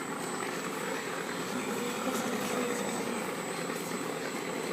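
Electronic engine sound system in an RC P-40N model plane playing a simulated aircraft engine running steadily through its small onboard speaker, thin and without deep bass.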